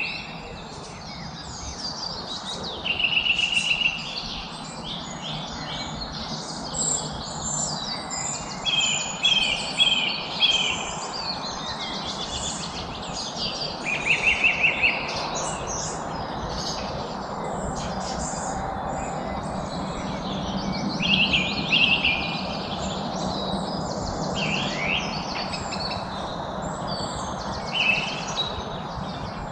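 Several birds chirping and singing together, with short rapid trills recurring every few seconds over steady low background noise.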